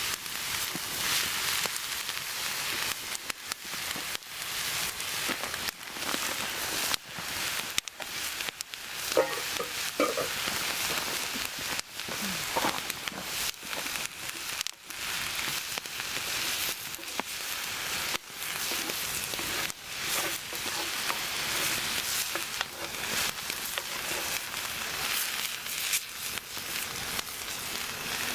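Paella ingredients sizzling steadily in a 15-inch Lodge cast-iron pan over an open campfire, with many small crackles and pops throughout.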